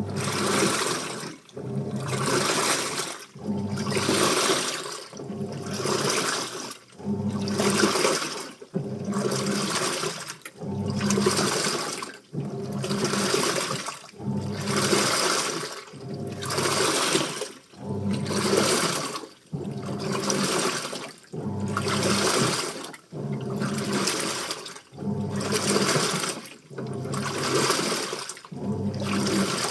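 Washing machine in its wash cycle, water and wet clothes sloshing in the drum in an even rhythm, with a surge about every two seconds.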